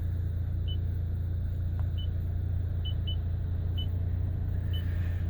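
Short high beeps from the Toyota Sienna's navigation touchscreen as it is pressed, about six of them at uneven intervals, over a steady low hum in the cabin.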